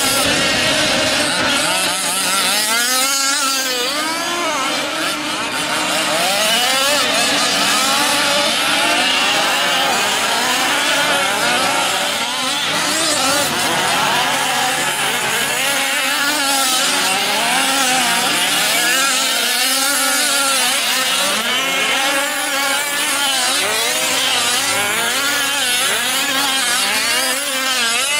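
Several 1/5-scale RC off-road race trucks with small two-stroke gas engines revving up and dropping off again and again as they race, their many rising and falling whines overlapping.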